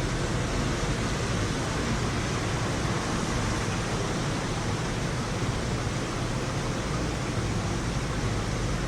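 Steady hiss of heavy rain during a thunderstorm, even and unbroken, with no thunderclap.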